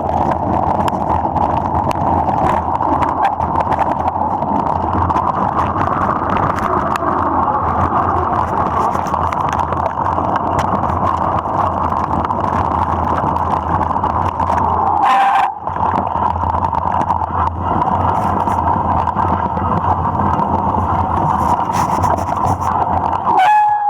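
Steady rushing noise of a mountain bike ride in the rain: wind and wet tyres on the trail. It drops briefly about fifteen seconds in and again near the end.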